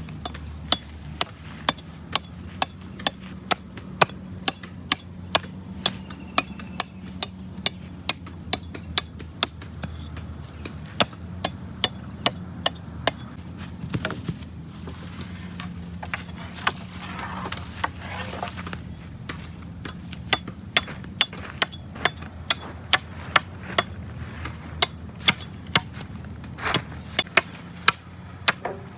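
Repeated sharp blows of a hand tool striking, about two a second, with a break of several seconds midway before the strokes resume.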